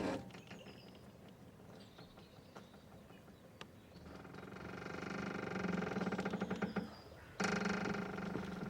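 A boat's rope squeaking and creaking as it works under strain. After a quieter stretch, a long creak swells in from about four seconds in, and another starts abruptly near the end.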